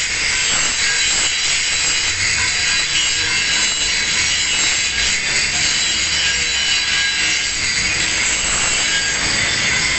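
Angle grinder grinding a single bevel on the edge of a metal plate, a steady harsh grinding noise.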